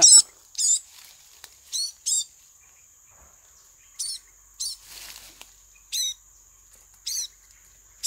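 Small bird's sharp, high chirps, repeated about once a second, over a faint steady high insect drone; a short rustle of leaves and twigs about five seconds in.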